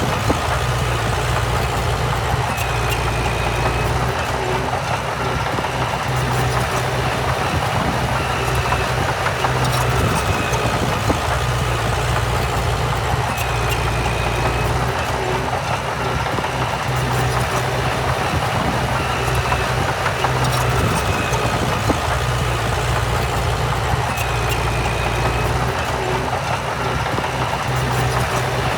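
Heavy diesel earthmoving machinery running steadily with a deep drone, with scattered light clicks and a short high squeak every few seconds.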